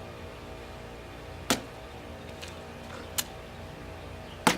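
A metal pole stabbed down into a watermelon: three sharp hits, spaced about a second and a half apart.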